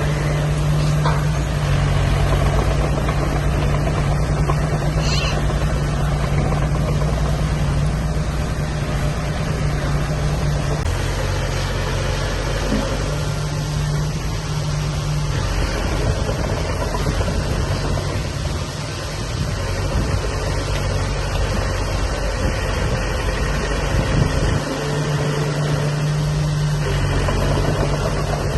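Heavy diesel engine of construction machinery running steadily, its note shifting a few times as the load or engine speed changes.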